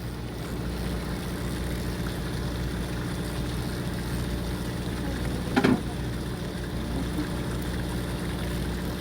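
Fishing boat's motor running with a steady hum. A brief voice is heard about five and a half seconds in.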